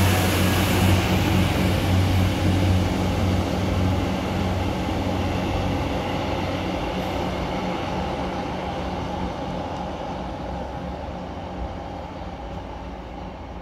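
Northern Ireland Railways CAF diesel multiple unit moving away along the line. Its engine drone and wheel rumble fade steadily as the train recedes.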